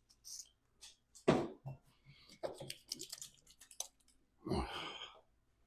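Hand-work at an engine during a camshaft install: irregular knocks and sharp clicks of tools and parts being handled, with a heavier knock about a second in and a short fuller burst of noise near the end.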